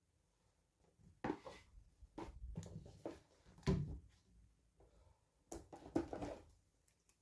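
Small plastic toy pieces and packaging handled by hand: a few short clicks and rustles, spread irregularly with quiet gaps between them.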